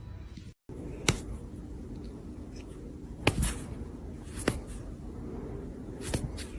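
A few sharp clicks or taps, four in all and spaced a second or two apart, over a low steady background hum.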